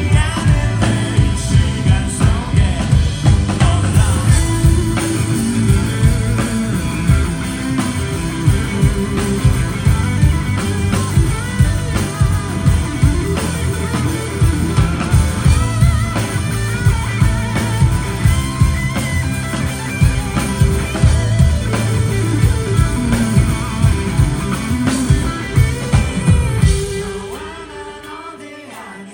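Live rock band playing with drums, electric guitar and a sung lead vocal. Near the end the full band drops away to a much quieter passage.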